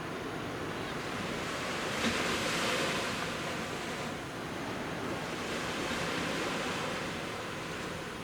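Sea waves breaking and washing ashore, in two swelling surges a few seconds apart.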